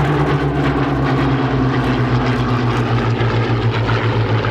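Piston-engined propeller aircraft flying past, its steady engine drone slowly dropping in pitch as it goes by.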